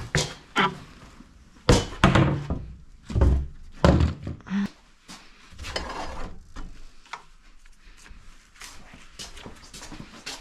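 Thunks and knocks of boards and tools being set down and shifted on a work surface, about six sharp ones in the first four seconds, then quieter handling noises.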